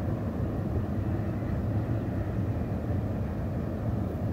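Double-stack container freight train passing: a steady low rumble with no sudden changes.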